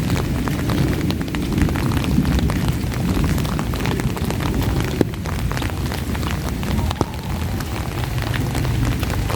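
Heavy rain falling steadily, with a dense patter of separate drop ticks over a deep, continuous rumble. Two sharper ticks stand out, about five and seven seconds in.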